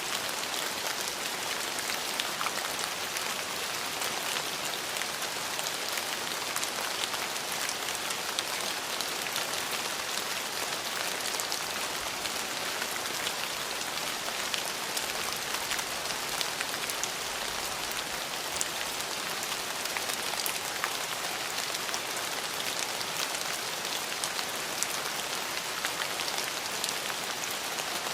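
Steady rain falling, a dense even hiss with many individual drops ticking on a hard surface.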